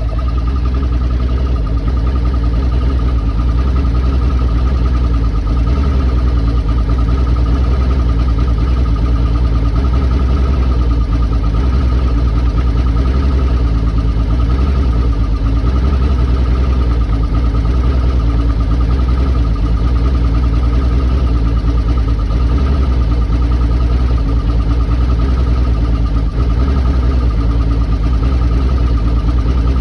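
2001 Mercury 225 Optimax V6 direct-injection two-stroke outboard idling roughly, its steady note wavering now and then. The owner reports the rough idle jumping up by about 300 rpm.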